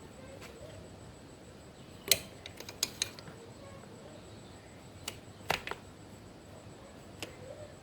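Scattered sharp clicks and taps of hand tools and small metal parts being handled, in irregular clusters: a loud one about two seconds in, several more just after, a group around five and a half seconds and a single one near the end.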